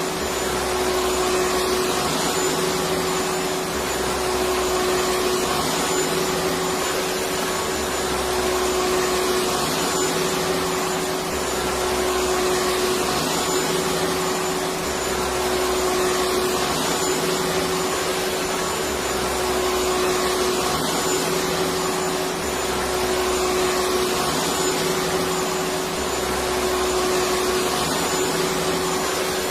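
Electric vacuum cleaner running steadily: a continuous rushing drone with a steady motor tone, and a low rumble that swells and fades every few seconds.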